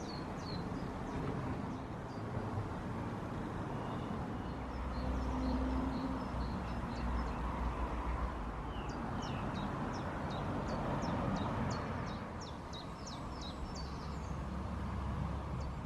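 Small birds chirping, with short high chirps scattered throughout and a quick run of them in the second half, over a steady low rumble.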